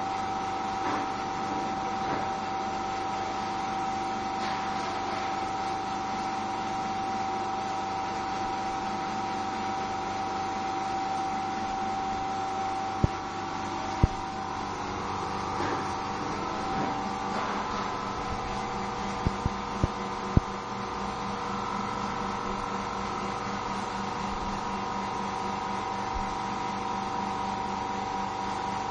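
Steady mechanical hum from a running machine, with several fixed tones, broken by a few sharp clicks or knocks around the middle.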